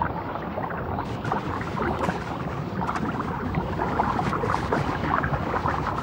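Underwater ambience: a steady watery wash with dense, irregular crackling and ticking throughout.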